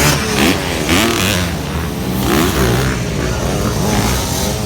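Several motocross dirt bike engines revving, their pitch rising and falling over and over as the bikes accelerate and back off around the track.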